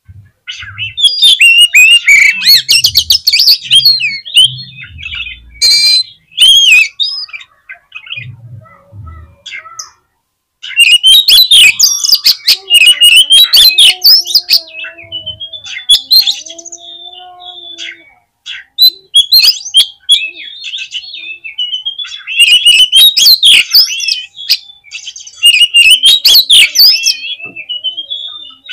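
Oriental magpie-robin (kacer) in full song: loud, fast, varied chattering and whistled phrases in three long bouts with short pauses between.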